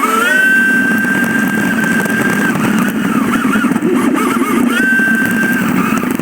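Jet ski engine revving up to a high steady whine, then easing off with a wavering pitch, then revving up and holding again near the end, over a steady rushing noise.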